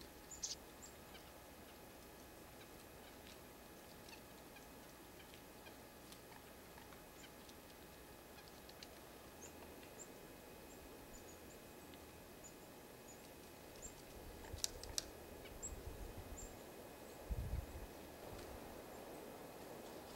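Small birds at a winter feeder giving short, faint, high chirps scattered throughout, with a couple of sharp knocks and some low rumbling of wind on the microphone about three quarters of the way through.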